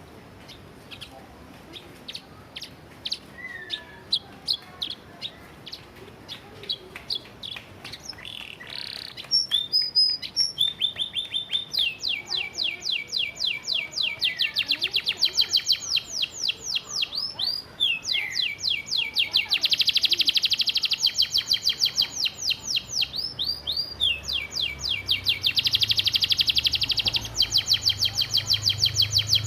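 Domestic canary singing. Scattered short chips and notes give way, about ten seconds in, to long, very rapid, rattling trills in the machine-gun style that canary keepers call 'tembakan'. The trills get louder toward the end.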